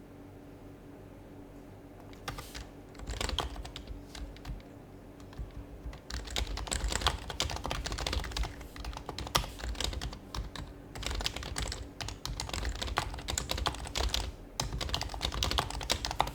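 Typing on an HHKB Professional HYBRID Type-S keyboard, its silenced Topre keys clacking in quick runs broken by short pauses, starting about two seconds in.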